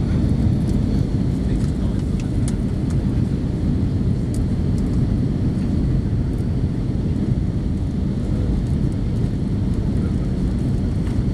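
Cabin noise inside an Airbus A318 airliner in flight: a steady low rumble of engines and airflow, with a faint steady high whine.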